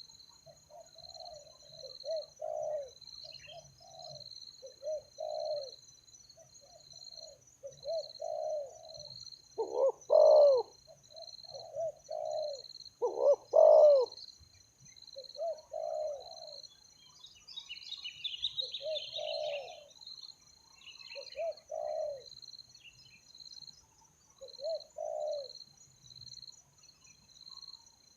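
Spotted doves cooing in repeated low phrases, a few much louder than the rest. Underneath runs a steady, pulsing high insect trill, and about two-thirds through a small bird chirps briefly.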